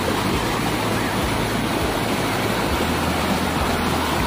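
Steady rushing of a large waterfall's falling water, an even, unbroken noise.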